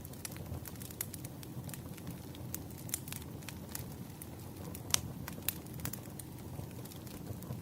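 Campfire burning: a steady low rumble of flame with frequent sharp crackles and pops of burning wood, one louder pop about five seconds in.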